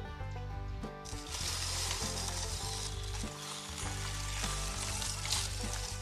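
A steady hissing noise starting about a second in, over background music.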